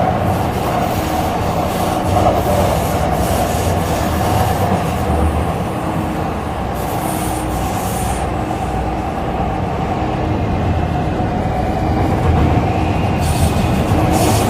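Interior running noise of an MTR C-Train on the Tseung Kwan O line: a steady rumble of wheels on rail and traction equipment, with faint brief wheel squeals about ten and twelve seconds in as it nears the Po Lam terminus.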